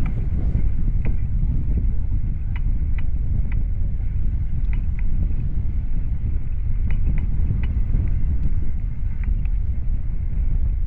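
Low rumble of wind buffeting the microphone on a moving bicycle, with scattered light clicks and rattles every second or so.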